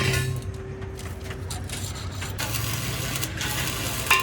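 Metalworking shop noise: a steady machine hum with scattered knocks and scrapes, and a sharp ringing clang of struck metal near the end.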